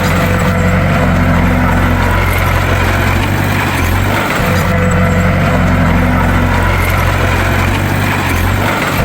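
Heavy diesel engine of a bulldozer running loud and steady, its low drone briefly dipping and changing pitch about every four and a half seconds.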